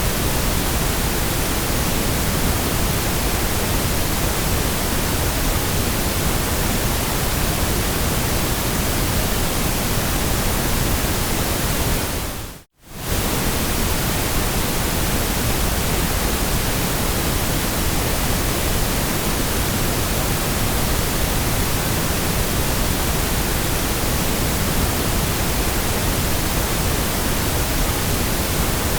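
Steady generated noise for sleep, an even hiss with its weight toward the low end, like pink noise. About halfway through it fades out to near silence for a moment and straight back in.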